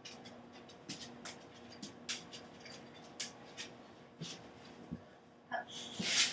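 A boxer dog moving about on a hard floor: scattered light clicks and taps at an uneven pace, with a louder rushing, breathy noise near the end.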